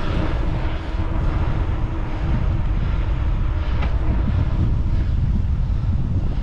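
Wind buffeting the microphone of a rider on a moving bicycle: a steady low rumble.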